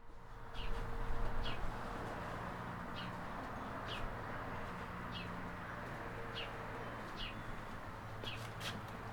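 A small bird chirping about once a second, each chirp short and falling in pitch, over a steady low background hum.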